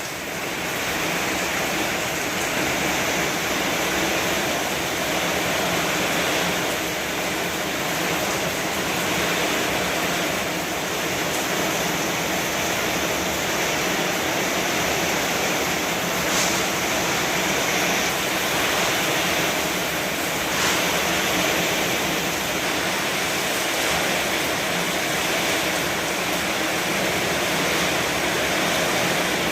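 Heavy rain pouring down in a windstorm: a loud, steady, even hiss of rain and wind, with two brief ticks a few seconds apart about halfway through.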